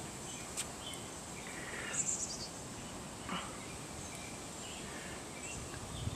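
Quiet outdoor ambience: faint bird chirps about two seconds in, over a steady high thin tone and background hiss, with a small click near the start.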